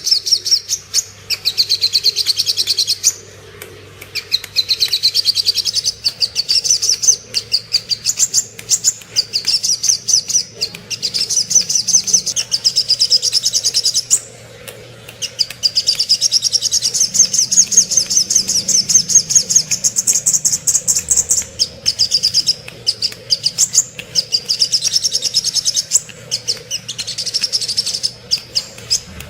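Little spiderhunter (sogok ontong) singing: long runs of rapid, high, evenly repeated chipping notes, broken by short pauses about three and a half and fourteen and a half seconds in.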